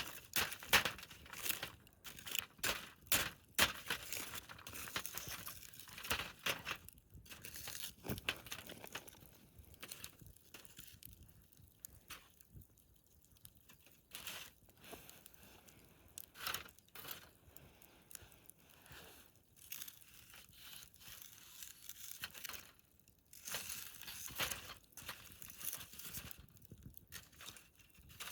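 Wood campfire crackling and popping: irregular sharp snaps over a faint hiss, thickest in the first several seconds and again near the end, sparser in between.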